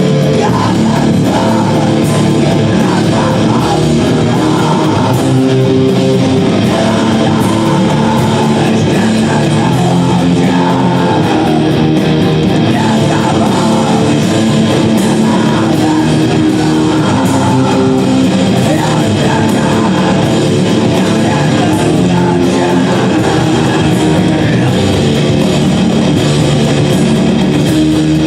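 Loud live rock music led by electric guitar, playing on steadily without a break.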